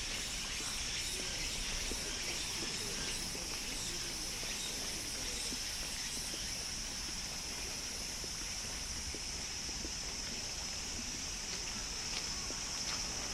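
Cicadas droning in a steady high buzz, over the rush of a stream.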